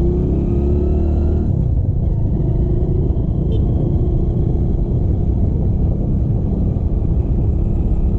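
Motorcycle engine running on the move, its revs climbing for about a second and a half, then dropping and settling into a steady run.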